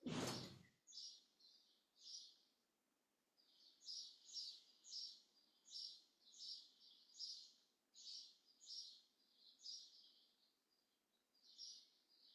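Faint bird chirping, short high calls repeated about twice a second with a few brief pauses. A brief burst of noise comes at the very start.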